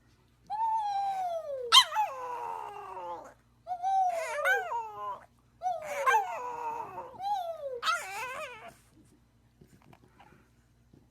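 A dog howling in about five drawn-out calls that fall in pitch, one after another, stopping about nine seconds in.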